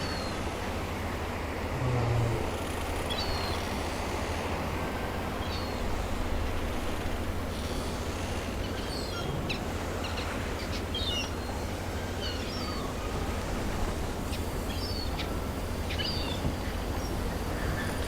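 Birds chirping in short scattered calls over a steady low background rumble, part of an ambient soundscape.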